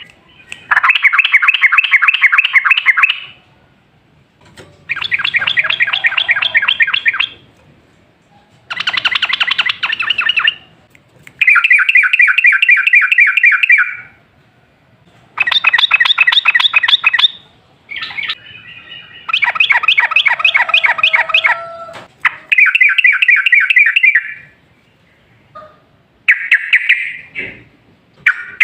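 Yellow-vented bulbul (trucukan) song: bouts of rapid, bubbling repeated notes, each lasting a second or two to about three seconds. The bouts come roughly every three to four seconds with short gaps between them. This is the long rolling 'ropel' song used as a lure to set other bulbuls singing.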